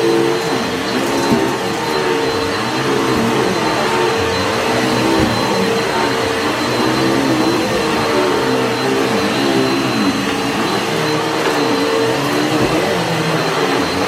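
Upright vacuum cleaner running steadily on soiled carpet, its motor note wavering up and down in repeated swells, with faint crunching of grit being sucked up from deep in the pile.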